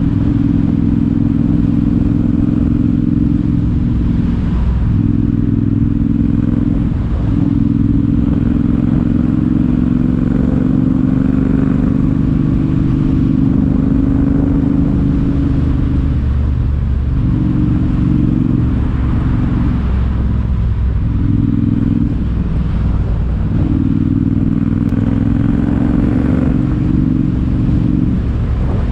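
Triumph T120 parallel-twin engine running through a Zard aftermarket exhaust while being ridden, a steady loud exhaust note that dips briefly several times and then picks up again.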